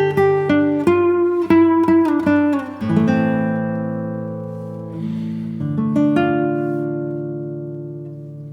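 Background music: acoustic guitar playing quick plucked notes, then ringing chords that slowly fade.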